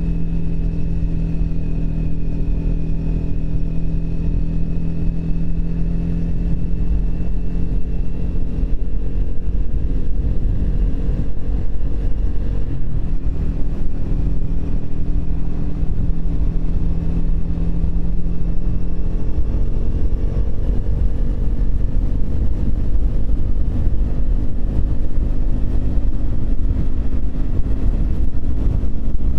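Triumph Speed 400's single-cylinder engine running while riding, over a heavy low rumble. The engine note shifts about halfway through and climbs slowly in the last third.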